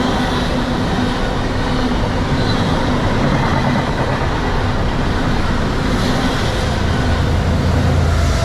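A train passing close by: the steady running noise of its wheels on the rails.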